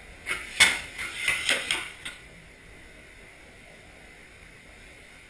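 Snow shovel scraping and knocking against the porch floor: a quick run of about six clattering strikes over about two seconds.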